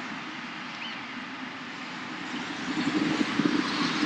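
Steady rushing outdoor background noise with no distinct events. In the last second or so it turns rougher and louder, with an uneven low rumble.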